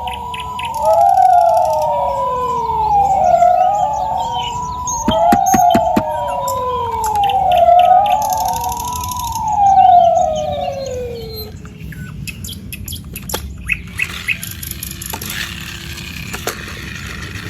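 Electronic toy ambulance siren wailing up and down in pitch, about one cycle every two seconds, cutting off about eleven seconds in. Light clicks and knocks follow.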